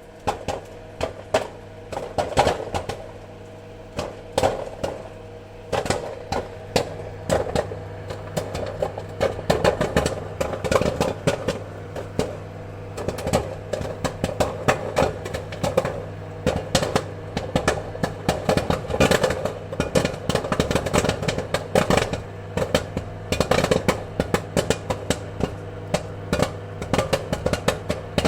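Popcorn kernels popping: sharp irregular pops, scattered at first and then coming thick and fast from about a third of the way in, over a steady low hum.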